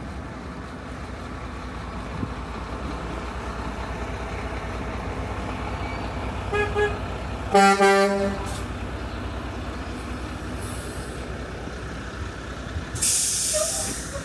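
Street traffic with a heavy vehicle's engine running steadily; a vehicle horn gives a short toot about six and a half seconds in, then a louder honk of about half a second a second later. A loud hiss near the end.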